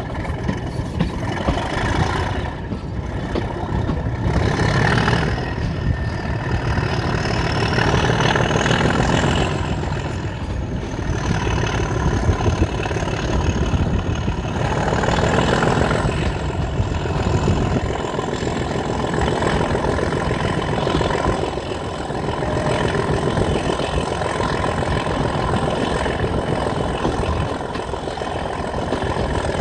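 Heritage diesel railway engine running, rising and easing in loudness, with a thin high whine that climbs in pitch a few seconds in and then holds steady.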